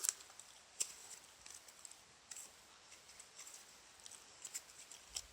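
Butter slime being squished and pressed by hand, giving faint, scattered sticky clicks and pops.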